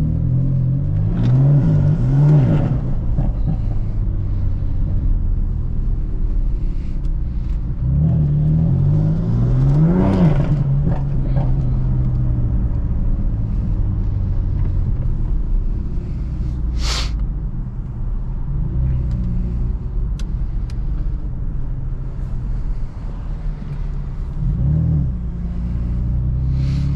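BMW F82 M4's twin-turbo inline-six running on the road, its pitch climbing and dropping in steps as it accelerates through the gears at the start, around ten seconds in and near the end. A single sharp click about seventeen seconds in.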